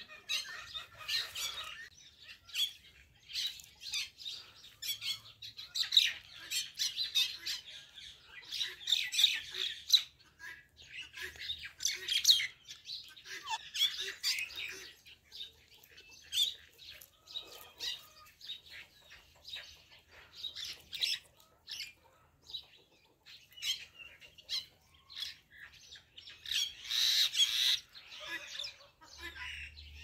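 Birds chirping and squawking in quick, short bursts with quieter gaps between clusters, and a dense loud burst near the end.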